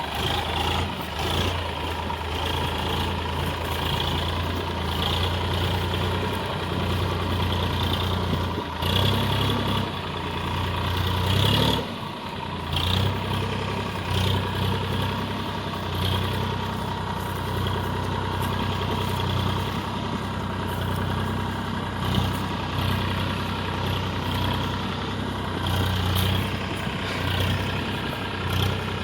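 Massey Ferguson 7250 DI tractor's diesel engine running steadily under load, pulling a heavy trailer, with a brief dip and change in its note about 9 to 12 seconds in.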